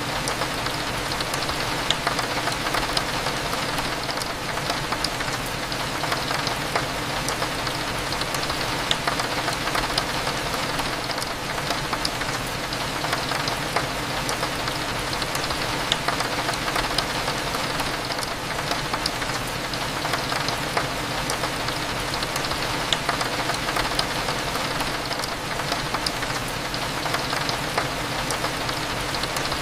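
Steady rain falling against a window, with many small drop ticks scattered through it, over a low steady hum of cafe background.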